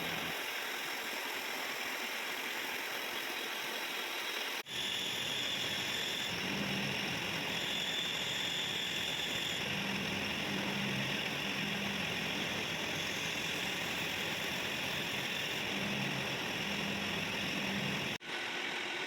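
Metal-cutting machine tool, a milling machine or lathe, running steadily while machining a bevel gear, with a faint steady whine over the machine noise. The sound cuts out abruptly for an instant twice, about five seconds in and near the end.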